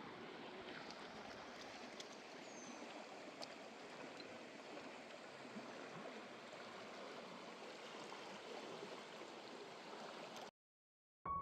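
Steady rush of flowing water with a few faint clicks. It cuts off abruptly near the end, and piano music starts just after.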